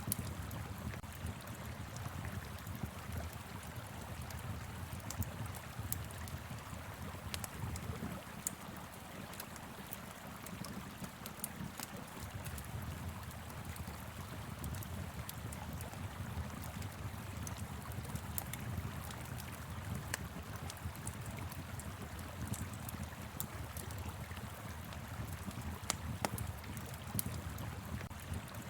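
Steady rush of a flowing river, with a wood fire crackling over it in many small sharp pops.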